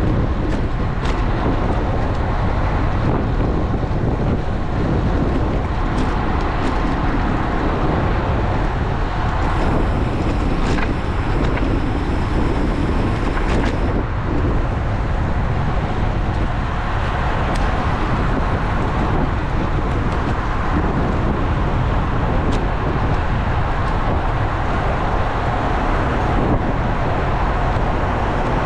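Steady wind buffeting a GoPro action camera's microphone while riding a road bike, mixed with road and traffic noise.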